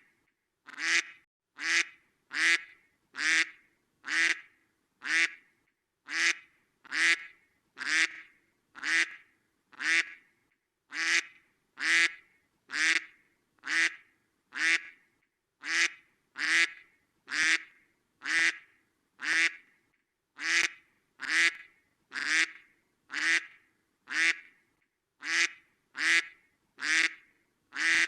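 Duck quacking, single quacks repeated at an even pace of roughly three every two seconds, each call alike.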